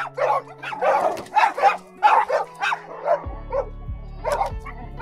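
A dog barking in a rapid run of short, sharp barks over background music. A low bass beat comes into the music about three seconds in.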